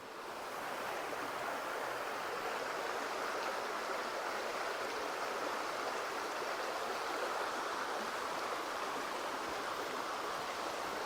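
Swollen river rushing steadily, running full after a night of heavy rain. It swells up over the first second.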